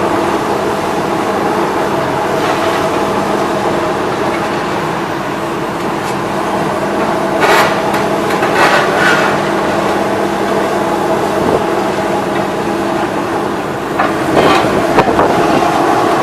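Demolition excavator's diesel engine running steadily under load, with sharp clanks and crashes of debris being broken and dropped: a cluster of them about halfway through and more near the end.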